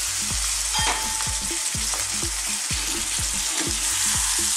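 Boiled potato chunks sizzling over a fairly high heat in oil with onions and spices in a non-stick frying pan, a steady hiss. A wooden spatula stirs them, with soft low knocks a few times a second.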